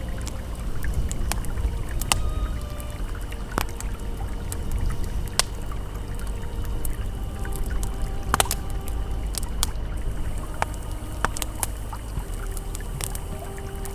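Campfire crackling with irregular sharp pops and snaps over the steady rush of a flowing river, with faint held tones of an ambient pad underneath.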